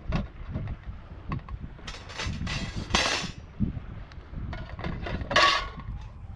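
Irregular handling sounds: scattered light clinks and knocks, with a few short rustling bursts about two to three seconds in and again near the end, over a low wind rumble on the microphone.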